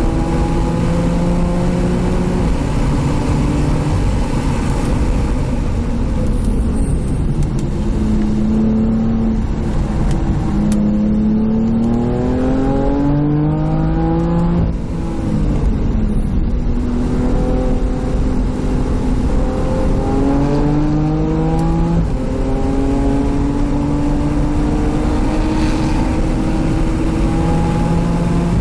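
Car engine under hard acceleration on a race circuit lap, its pitch climbing and then dropping in steps as it shifts through the gears, with a long climb that ends in a sudden drop about fifteen seconds in. Road and wind noise run underneath.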